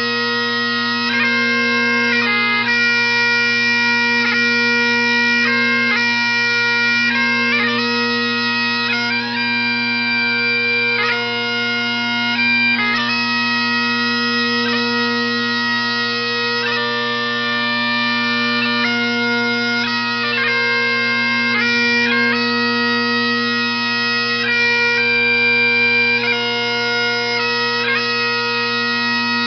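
Bagpipe music: a steady drone held underneath while a melody moves from note to note above it.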